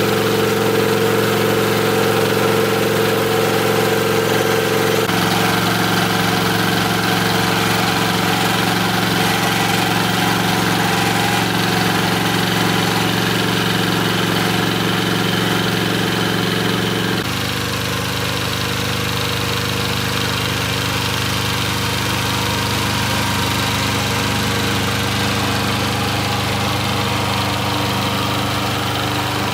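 A vehicle engine running steadily at a constant speed, its pitch and level shifting abruptly twice, once a few seconds in and again just past the middle, where it becomes a little quieter.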